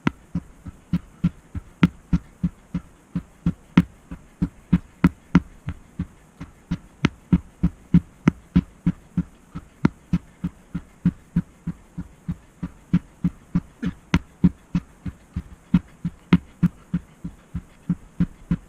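A steady run of dull thumps, about three a second, each with a sharp click on top. It starts and stops abruptly.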